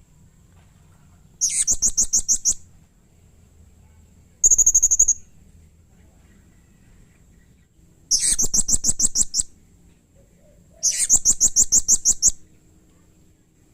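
Blue-crowned hanging parrot (serindit) calling in four bursts of rapid, high-pitched chirps, about ten notes a second, each burst one to one and a half seconds long. An agitated, full-voiced call.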